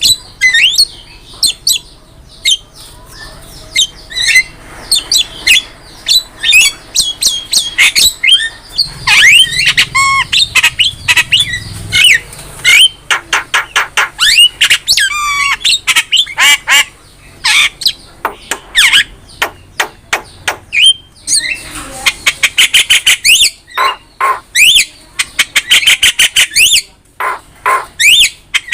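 Javan myna (jalak kebo) singing and calling in a fast, varied string of harsh squawks, sharp chirps and whistles. Midway it gives runs of quickly repeated rising and falling whistles, and near the end it breaks into dense, rapid chatter.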